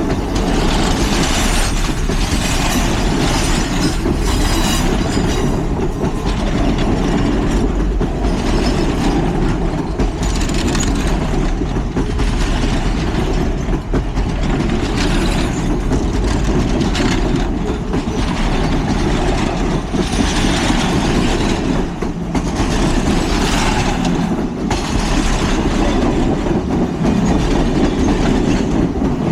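Passenger train cars rolling past close by, wheels clacking steadily over rail joints with a light squeal of wheels on rail.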